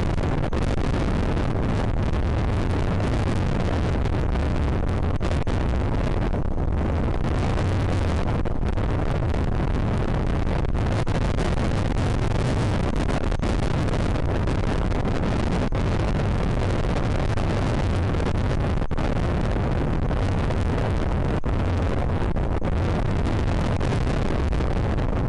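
Strong wind buffeting the microphone of an outdoor nest camera: a loud, steady, rumbling roar with no pauses, heaviest in the low end.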